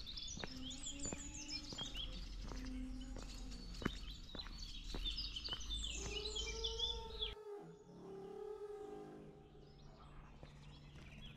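Small birds chirping and twittering in quick, varied phrases over a steady low hum, with a few light clicks. About seven seconds in the low background cuts off abruptly and the birdsong thins out.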